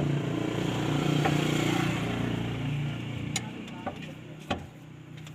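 A vehicle engine running, louder about a second in and fading away after about three seconds, followed by a few sharp clicks.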